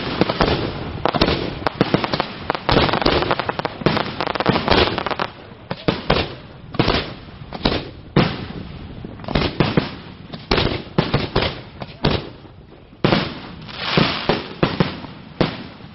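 Aerial fireworks shells bursting: rapid overlapping bangs and crackling for the first five seconds, then clusters of bursts about a second apart, thinning out near the end.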